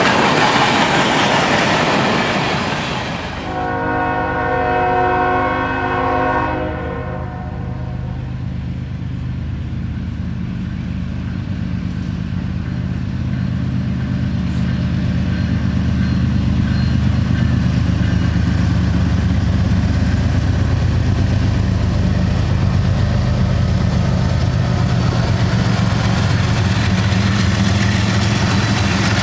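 A freight train rolling past, then a locomotive air horn sounding several tones at once for about three seconds. After that a diesel locomotive engine runs with a steady low drone that grows louder toward the end.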